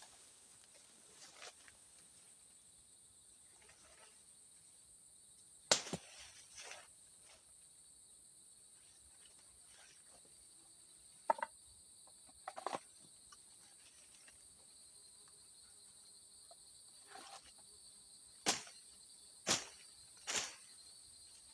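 Steady high-pitched drone of forest insects such as crickets, with a few short, sharp sounds breaking in, three of them close together near the end.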